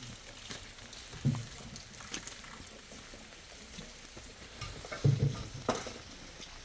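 Steady rain hiss, with a few sharp knocks and dull thumps: one about a second in and a cluster about five seconds in.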